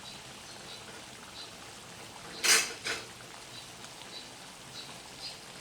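Spiced sambal paste simmering in a pan, with small scattered pops. About halfway, two short bursts of noise, the first much the louder.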